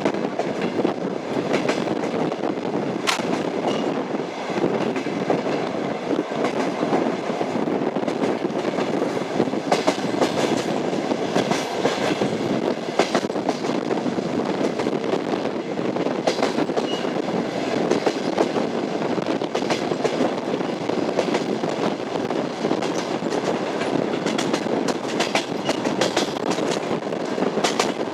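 Express passenger train's wheels running over the rail joints of jointed track: a steady rolling rumble with clickety-clack knocks as the wheelsets cross each joint.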